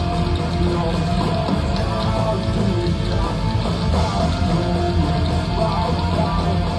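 A live rock band playing heavy, loud music with distorted electric guitars and a drum kit.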